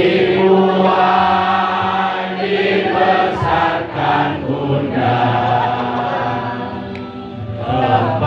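A group of voices singing in unison, with long held notes that change every second or two.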